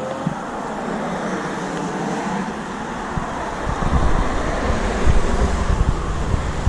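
Outdoor traffic noise with a steady hiss of road sound; from about halfway, wind buffets the microphone with heavy, uneven rumbling.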